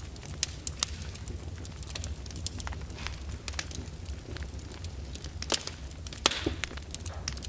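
Fire in a fireplace crackling steadily, with frequent small snaps and a few sharper pops, the loudest near the end, over a steady low rumble.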